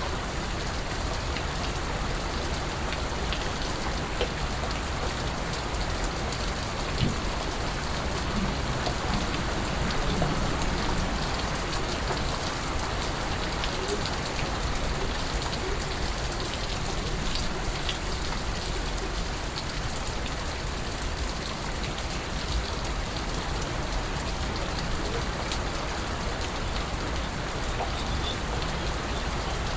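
Steady rain falling, an even wash with individual drips scattered through it.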